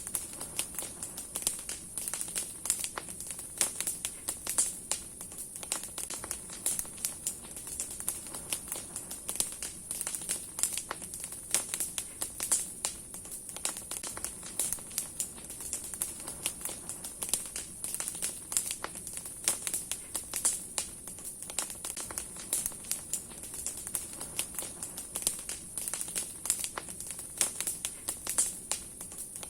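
Large wood bonfire crackling: many burning branches giving dense, irregular pops and snaps over a steady high hiss.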